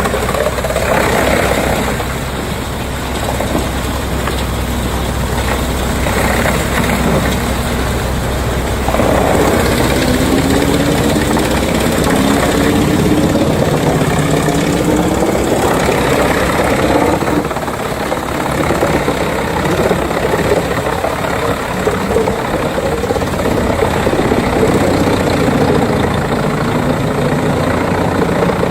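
Heavy wood chipper engine running loudly over a constant rushing noise, its pitch rising and falling several times.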